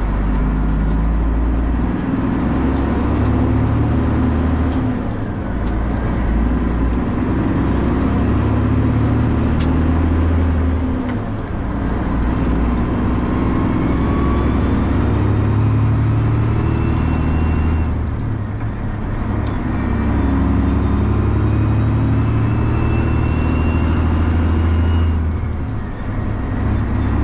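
Straight-piped Detroit 12.7 six-cylinder diesel in a Freightliner truck running loud on the road, its exhaust note shifting in pitch and dipping briefly about every six seconds.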